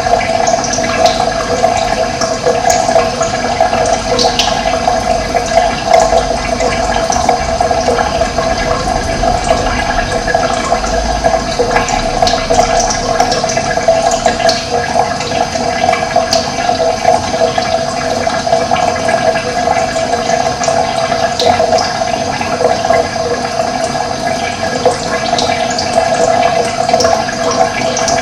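Running water rushing steadily, with faint short bird chirps here and there above it.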